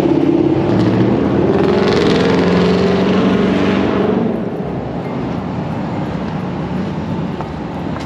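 Pickup truck engine running, louder through the first four seconds and then settling to a quieter steady sound.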